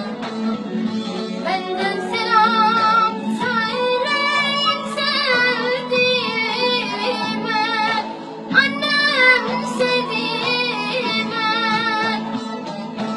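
A female voice singing a melismatic, wavering melody with vibrato over steady instrumental backing, breaking off briefly about eight seconds in before resuming.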